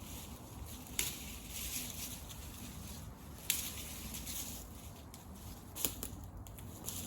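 Wood campfire crackling and hissing, with three sharp pops: about a second in, midway, and near the end.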